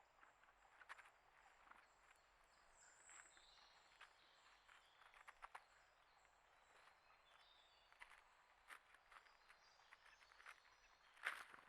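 Near silence broken by scattered faint taps and scratches, like small birds and squirrels pecking and moving about, with a few soft high bird chirps about three seconds in and a sharper tap near the end.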